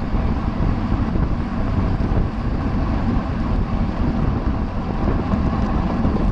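Steady wind noise buffeting the microphone of a camera on a bicycle moving at racing speed.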